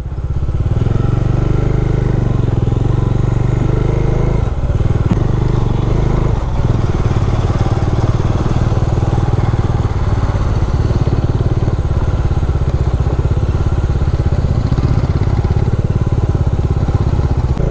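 Bajaj Dominar motorcycle's single-cylinder engine running steadily under load as the bike climbs an off-road trail.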